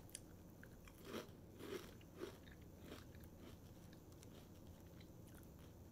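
Faint crunching of a person chewing crisp corn-and-rice snack crackers, with a few louder crunches between about one and two and a half seconds in.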